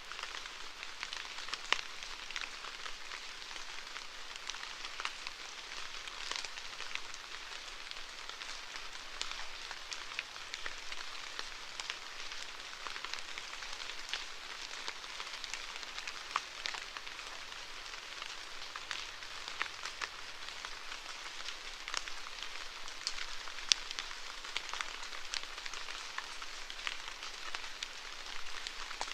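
Steady rain falling on a hard surface: a constant patter with many sharp individual drop ticks.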